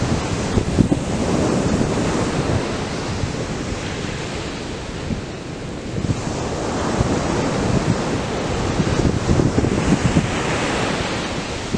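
Atlantic surf breaking and washing on the beach in a steady roar that swells and eases, with wind buffeting the microphone.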